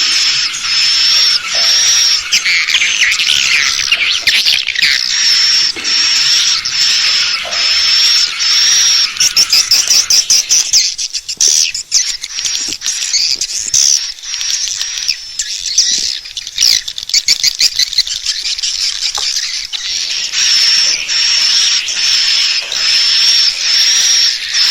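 Edible-nest swiftlet calls from a lure recording: high chirps repeat in a steady pattern. About halfway through, and again a little later, the chirps give way to faster, dense clicking twitters before the chirping pattern returns.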